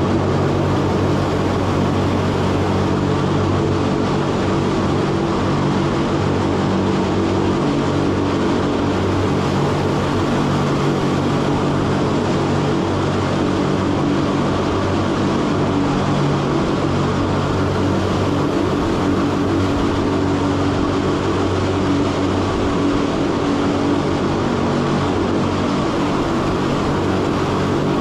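Electric cogwheel rack-railway train running steadily through a tunnel, with a constant hum of several steady motor and gear tones over the rumble of the running gear.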